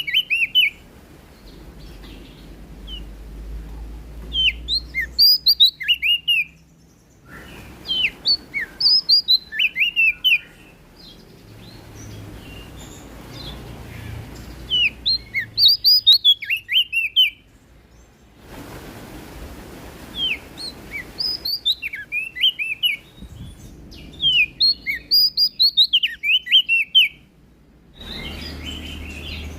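Prenjak daun songbird singing: phrases of quick, high, sharp chirps and trills, each a second or two long, repeating every few seconds with short pauses between.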